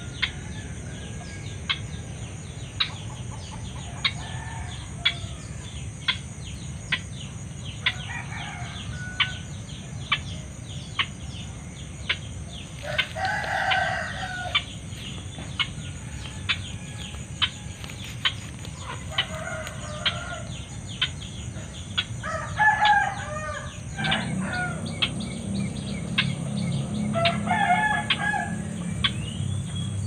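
Short bouts of clucking fowl-like calls, four or five of them spread through the stretch, over a steady run of sharp ticks about once a second and a low hum that grows louder in the last few seconds.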